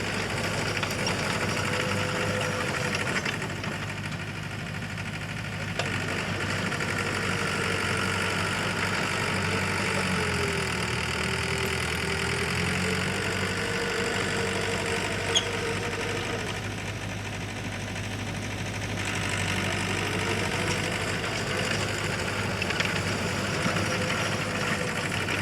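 Heavy earthmoving machinery's diesel engine running steadily, its pitch slowly rising and falling. There is one sharp click about fifteen seconds in.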